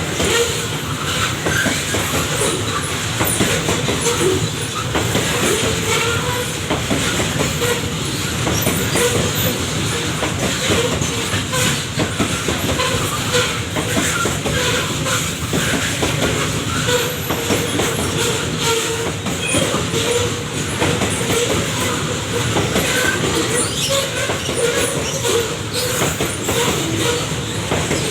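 Babaranjang coal train's wagons rolling past, steel wheels clattering steadily over the rails with intermittent squeal.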